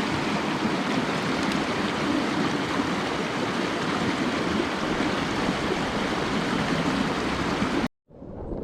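Mountain stream water rushing steadily over rocks, cut off abruptly near the end.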